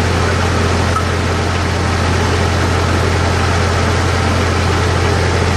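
McConnel Log Mate circular saw bench running free, not cutting, with a steady low engine hum from its drive.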